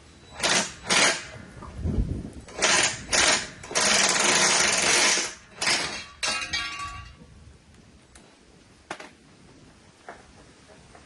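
A power tool run in several short bursts, with one longer run of about a second and a half near the middle, followed by a few faint clicks.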